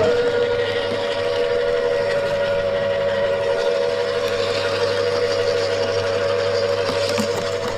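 Wood chipper running with a steady high whine over a wide rushing noise, cutting in abruptly at the start.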